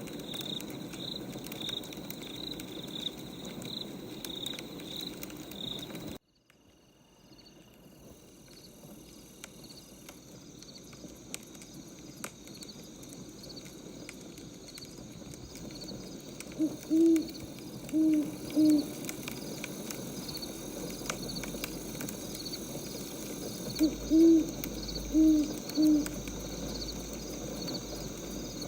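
Night ambience of crickets chirping in a steady rhythm, with an owl hooting in two short series of hoots in the second half. The whole background cuts out about six seconds in and fades back up.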